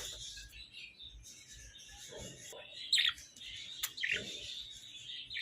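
Budgerigars chattering and warbling, with sharper, louder chirps about three seconds in.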